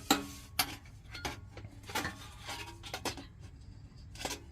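Metal heater parts clinking and knocking together as they are handled, in irregular sharp strikes, some with a brief ring. The loudest is right at the start and another comes near the end.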